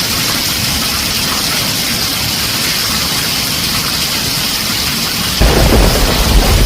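Heavy rain drumming on a tin roof, a dense, steady hiss. About five seconds in, it suddenly grows louder with a deep low rumble, as thunder rolls in.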